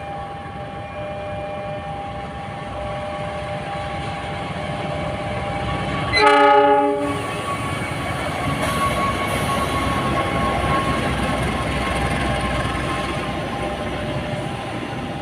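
A train passing close by with a steady, building rumble. About six seconds in, the horn gives one short blast of about a second.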